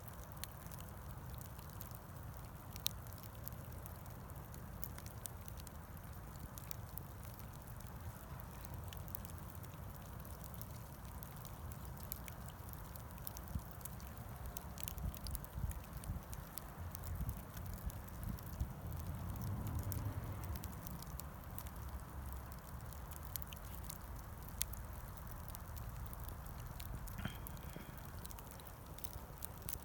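Bonfire of scrap wood burning, with scattered sharp crackles and pops over a low steady rumble.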